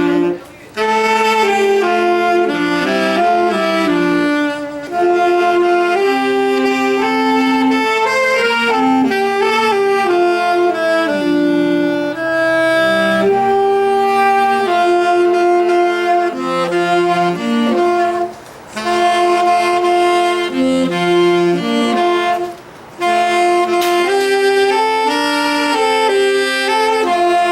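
A small wind ensemble playing a tune in several-part harmony, with short breaks between phrases about half a second in and twice more later on.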